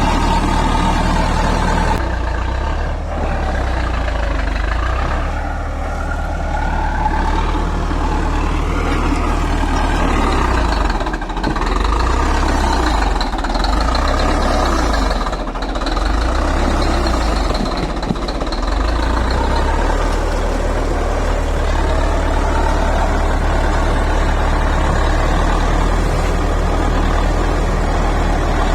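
Heavy diesel engine of a bulldozer running continuously at construction work, its low note shifting a little as the load changes.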